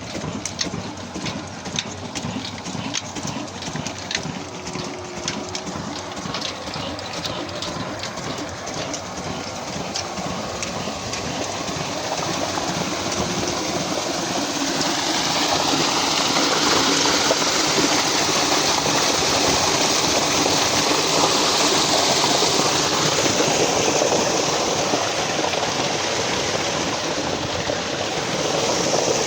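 Old Ruston diesel engine running a tube-well pump, its firing beat heard as a regular clatter. About halfway through, the rush of pumped water grows louder and covers the engine.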